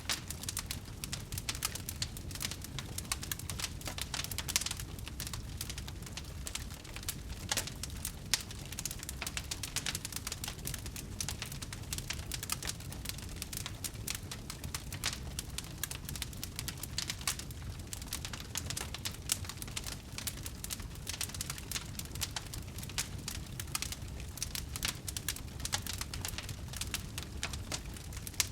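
Wood fire crackling: dense, irregular pops and snaps over a steady low rumble, with a few sharper pops standing out.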